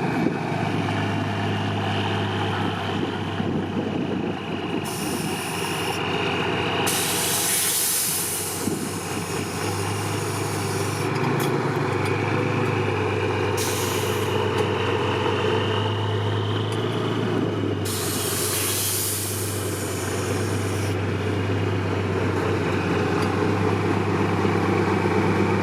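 Heavy trial truck's diesel engine running steadily at low revs. Several short bursts of hissing compressed air from the air brakes sound over it.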